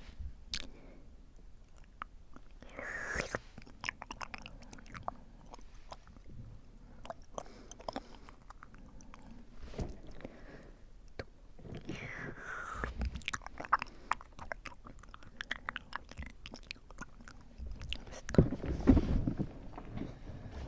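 Close-microphone ASMR mouth sounds: scattered wet clicks and lip smacks, with two breathy exhales. Near the end, loud breath blown straight onto the microphone.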